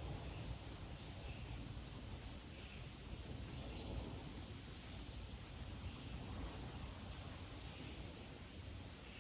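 Very high, thin bird calls: several short notes, the loudest about six seconds in, over a faint low rumble of outdoor ambience.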